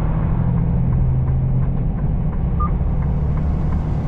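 Semi-truck engine and road noise heard from inside the cab, a steady low drone, with a light regular ticking of about three ticks a second from about halfway through.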